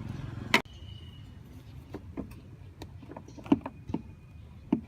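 A low hum cuts off with a sharp click about half a second in. Then come scattered clicks and light knocks as hands work the loosened intake hose clamp and the plastic air-filter housing lid of a Nissan Navara NP300.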